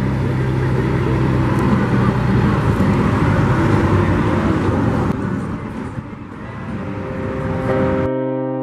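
Scania 113H truck's diesel engine running with a steady low hum and road-like noise, easing off about two-thirds of the way through. Piano music comes in just before the end.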